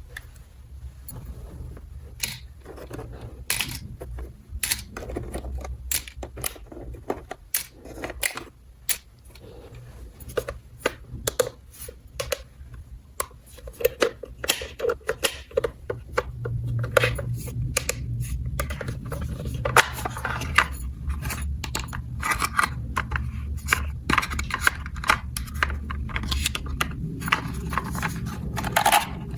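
Small plastic toy pieces being handled, a string of irregular clicks and taps, with a low steady hum coming in about halfway through.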